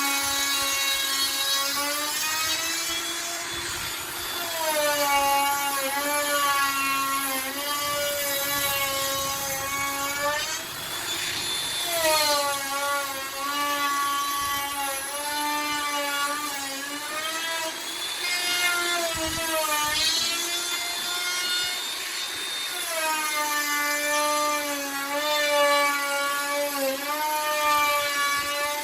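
Handheld electric router running and cutting into a wooden door, its motor whining steadily. The pitch sags every few seconds as the bit bites into the wood under load, then recovers.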